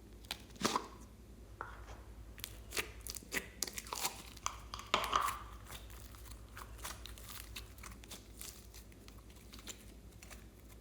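Slime being pressed and worked by hand, giving off irregular crackling clicks and pops. They come thickest for a few seconds near the start and then thin out to scattered clicks.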